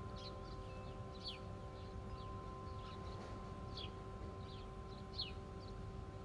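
Small birds chirping: scattered short, falling chirps, about a dozen, over a steady faint hum.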